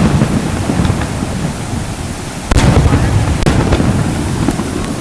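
Aerial fireworks bursting: a deep boom about halfway through, followed by a few sharp cracks, over a steady rushing noise.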